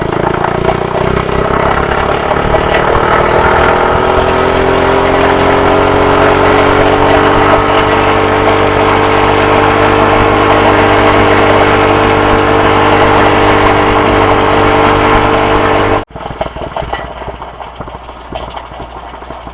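Razor MX350 electric dirt bike under way, its motor and chain drive whining in a pitch that climbs slowly as the bike gathers speed and then holds steady at top speed. The sound cuts off abruptly about 16 seconds in.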